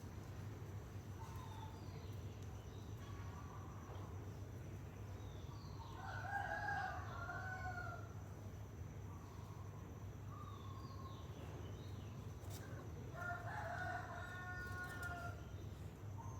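Rooster crowing twice, once about six seconds in and again near the end, each crow lasting about two seconds, with fainter, shorter calls in between over a steady low hum.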